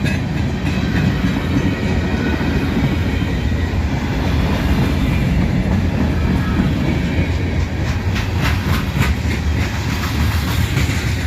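Freight train of covered hopper cars rolling past at close range: a steady rumble of steel wheels on the rail. A quick run of clacks about eight to nine seconds in comes as wheels cross rail joints.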